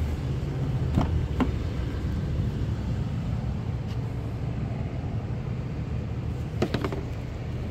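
Steady low hum of an idling vehicle engine, with a couple of sharp clicks about a second in as the SUV's rear door latch is opened, and a few more clicks and knocks near the end.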